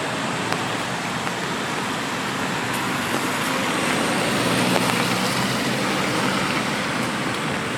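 Steady rain with scattered drops ticking close by, and a car passing on the wet road, its tyre hiss swelling around the middle and then fading.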